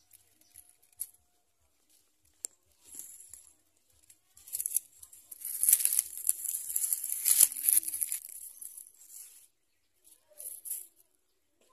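Dry nest material rustling and crinkling as society finches move about in their nest: a few short bursts, then a longer, louder stretch of about five seconds, and one more short burst near the end.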